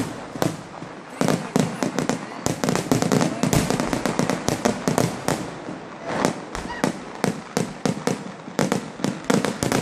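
Fireworks finale: a dense, rapid barrage of explosive bangs, several a second without a break, with crackling in between.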